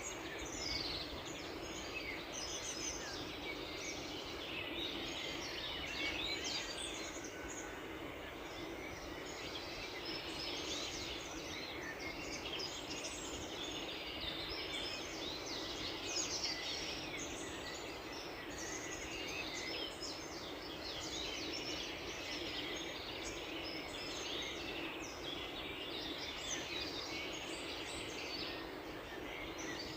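Many small birds chirping and twittering at once, a dense overlapping chorus of short high calls, over a steady background hiss.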